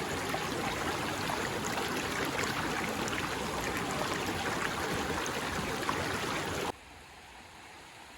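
Steady rushing of running water, with faint scattered ticks. It drops suddenly to a much quieter hiss near the end.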